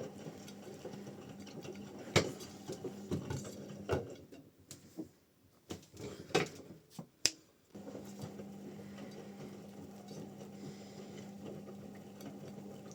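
Washing machine running through its wash cycle while it heats the water, with a steady low hum. The hum stops for several seconds in the middle, when a series of sharp clicks and knocks sounds, the first and loudest about two seconds in; then the hum resumes.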